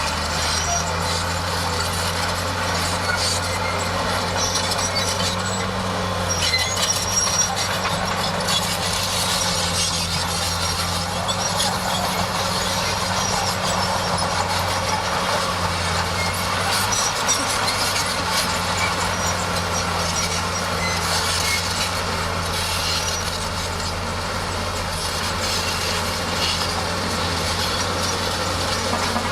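Bulldozer's diesel engine running steadily, with scraping and clanking over it.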